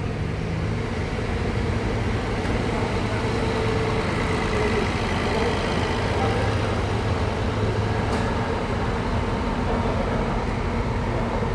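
Scania K360 coach's diesel engine running steadily, as the bus departs.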